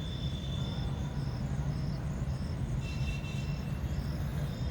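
Insect chirping in an even rhythm, about two short high chirps a second, over a steady low rumble.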